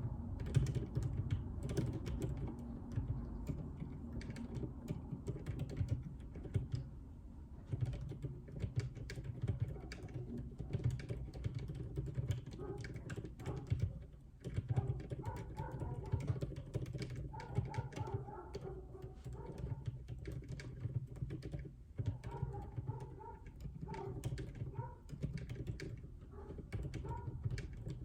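Typing on a JJK84 mechanical keyboard with Outemu Silent Peach linear switches: a steady stream of dull, low-pitched keystrokes in quick runs.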